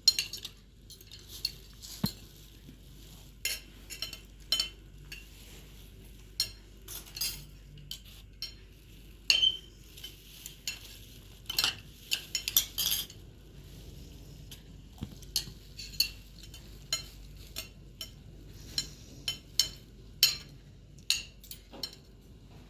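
Metal utensil clinking and tapping against cookware or dishes in irregular strokes, a few of them ringing briefly.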